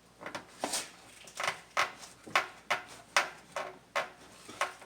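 About a dozen short clicks and knocks, two to three a second at uneven spacing, from parts being handled and pressed into place while an engine's intake manifold is refitted.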